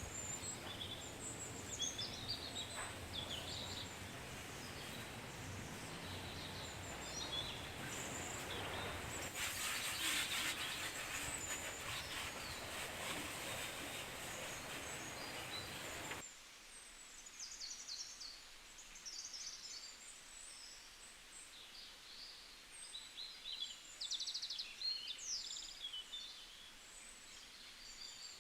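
Small birds chirping and twittering over a steady outdoor background rush, with a louder hissing stretch for a couple of seconds about a third of the way in. About halfway through the background noise cuts off abruptly, leaving only the birdsong over quiet.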